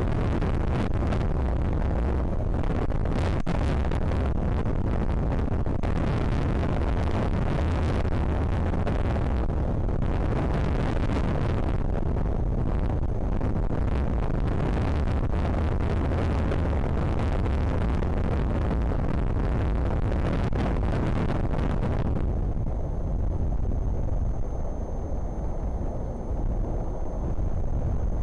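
Very strong wind buffeting the microphone of a nest camera: a steady heavy rumble with gusty roaring. Near the end the gusts ease for a few seconds, leaving the low rumble and a faint steady high whine.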